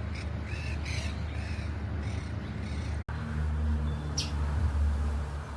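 Birds calling in a quick run of repeated calls, about two a second, which stop about three seconds in. A low rumble and one short high chirp follow.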